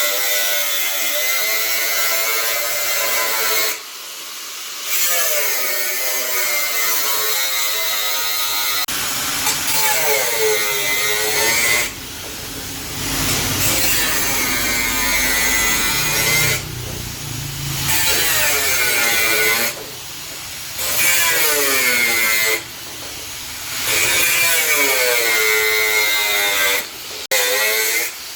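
Handheld electric power tool running in runs of a few seconds with short breaks between, its pitch sagging and recovering again and again as it is pressed into the work.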